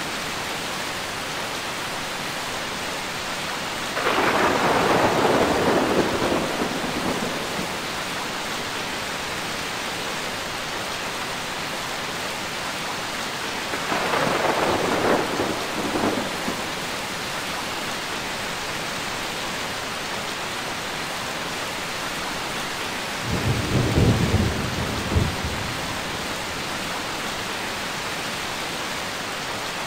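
Steady heavy rain with three rolls of thunder, about ten seconds apart, each lasting a few seconds; the last is deeper, with a few sharp cracks.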